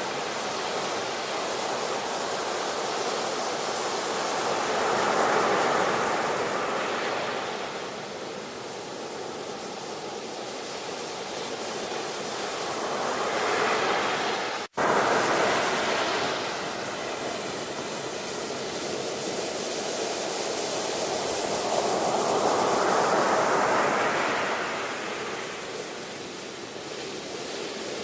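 Ocean surf: waves breaking and washing in, swelling and ebbing about three times, with a momentary dropout about fifteen seconds in.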